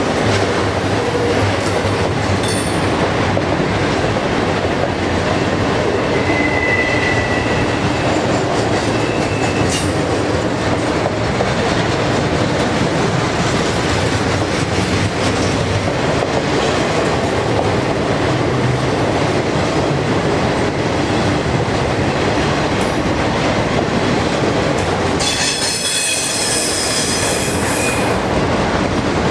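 Union Pacific double-stack container train rolling past, its cars making a steady rumble and clatter on the rails. Wheels squeal briefly about a quarter of the way in and again, louder and with several high tones, near the end.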